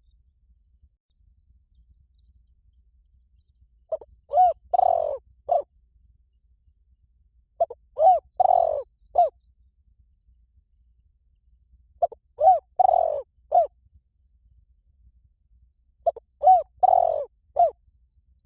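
Spotted dove cooing: four phrases about four seconds apart, each a short run of low coos with a longer note in the middle. It is a call of the kind used to draw wild spotted doves in to a decoy.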